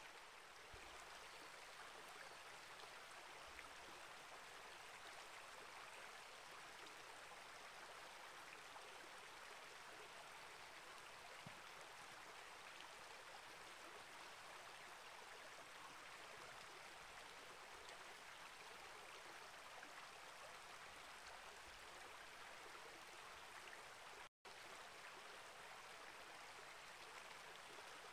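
Small rainforest creek flowing, a faint, steady rush of water. It cuts out for an instant about 24 seconds in.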